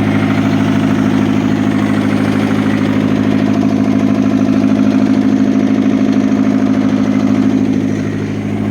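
Diesel engine of a Fiat Hitachi FH150 excavator idling steadily, dipping slightly in level near the end.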